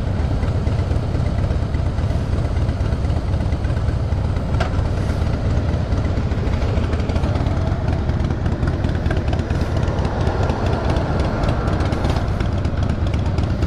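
Motorcycle engine running steadily, a low even rumble with no change in pace.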